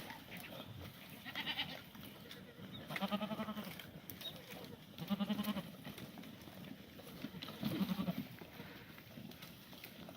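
Black goats bleating: four wavering calls about two seconds apart, the first higher-pitched and fainter than the rest.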